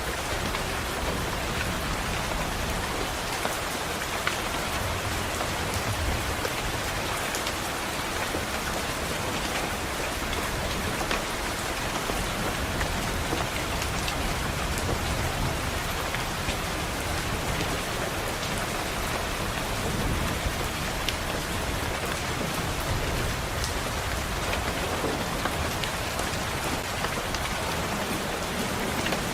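Steady rain, an even hiss with scattered sharp drop ticks. Under it, distant thunder rumbles low and swells a few times.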